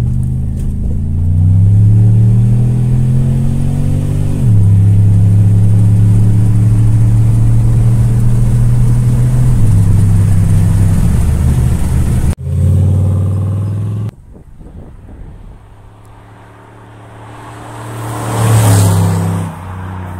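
Inside the cabin, a 2006 Pontiac Grand Prix GXP's 5.3-litre V8 accelerates, its pitch rising and then dropping at an upshift about four seconds in before it pulls steadily on. Later the car drives past outside, its sound swelling to a peak and fading away near the end.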